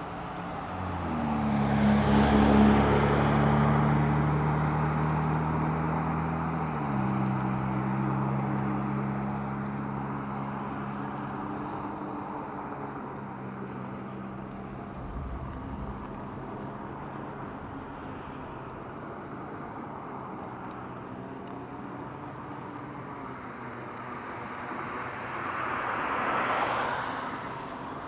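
Road traffic passing. A motor vehicle's engine swells loudly about two seconds in, drops in pitch about seven seconds in and fades slowly. A second vehicle rushes past near the end.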